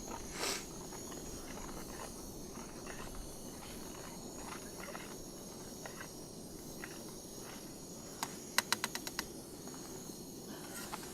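Small clicks and scrapes over a steady low hiss, with a quick run of about six sharp clicks a little past eight seconds in.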